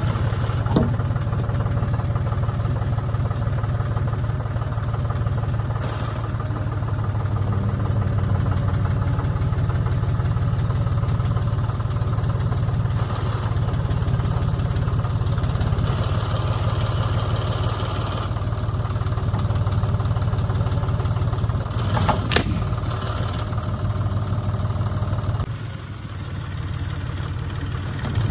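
An engine running steadily at low speed, with one sharp knock about two-thirds of the way through. It drops to a lower level for the last few seconds.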